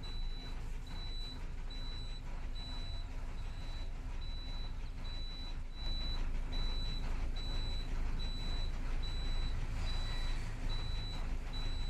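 Truck reversing alarm beeping at an even pace of about two high beeps a second, over a diesel lorry engine running; the engine gets a little louder about halfway through.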